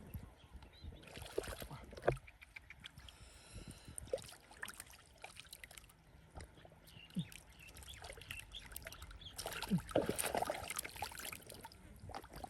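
Splashing and sloshing in shallow muddy field water as fish are grabbed by hand, with a scatter of small wet clicks and two louder splashing bursts, one about a second in and a longer one near the end.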